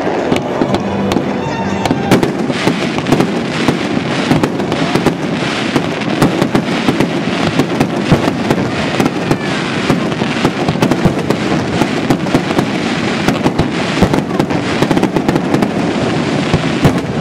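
Aerial firework shells launching and bursting in a display, a dense, continuous run of bangs and crackles.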